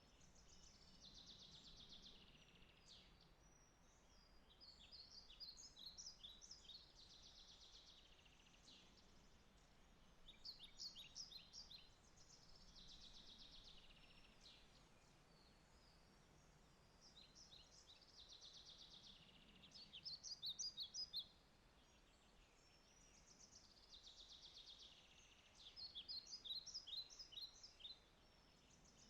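Faint songbird song: a phrase of sharp, quick notes and a buzzy trill, repeated every several seconds, over a low steady background hiss.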